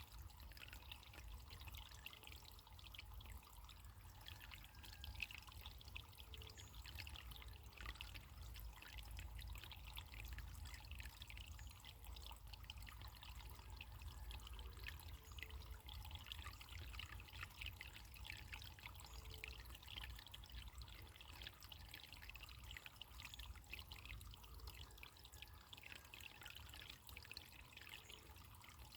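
Running water trickling and splashing in a steady, faint patter, like a small stream.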